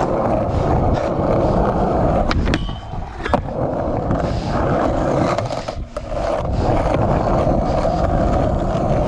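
Skateboard wheels rolling on concrete and the board sliding along a rail in front boardslides, with the board's sharp clacks about two and a half and three and a half seconds in.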